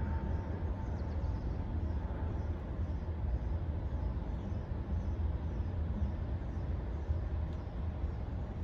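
Steady low background rumble with no distinct events, the kind of constant outdoor noise heard around a rooftop or commercial condenser unit.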